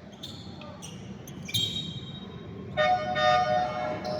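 Basketball game on an indoor court: sneakers squeaking in short high-pitched squeals, about a second and a half in and again from near three seconds, over the steady noise of the hall.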